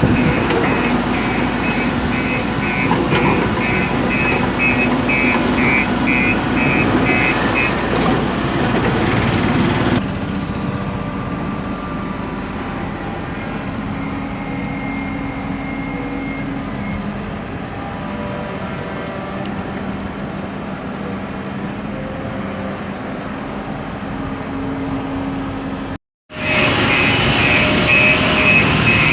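Heavy construction machine running, its reversing alarm beeping steadily in a high tone. The beeping stops about a third of the way in, leaving only the engine rumble, and comes back after a short break near the end.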